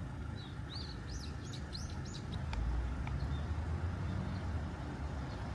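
A songbird chirping a quick run of high rising-and-falling notes in the first two seconds, over a steady low rumble.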